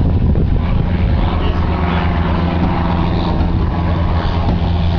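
Helicopter running on the ground just after landing: a loud, steady drone of engine and rotor with a strong low hum.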